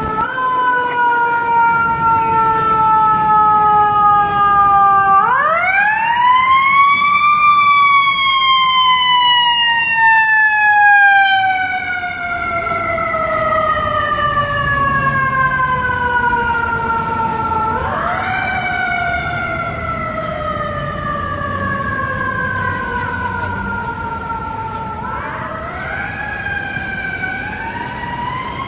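Fire engine siren wailing. It winds up about five seconds in, slowly falls for over ten seconds, winds up again around eighteen seconds, and climbs in short steps near the end.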